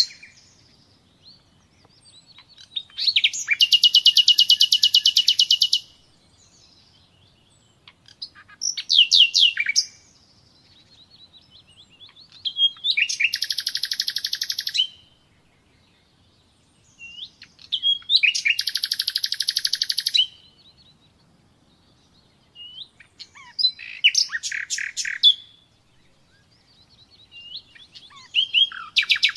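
Nightingale singing: six phrases of one and a half to three seconds each, separated by short pauses. Several phrases are fast, even trills of rapidly repeated notes.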